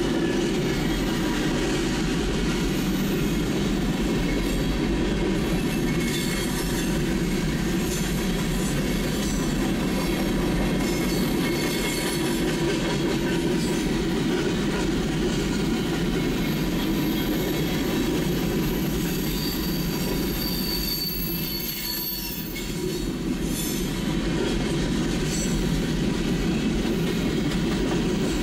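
Freight train of covered hopper cars rolling past: a steady rumble of steel wheels on rail, with thin high wheel-squeal tones riding on top. The noise dips briefly about three quarters of the way through.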